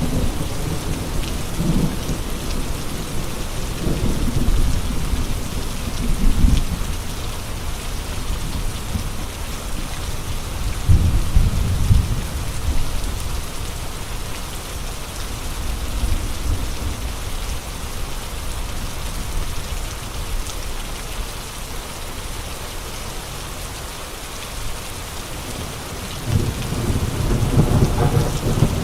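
Steady heavy rain hissing, with deep rumbling surges of wind in the first few seconds, again about eleven seconds in, and building again near the end.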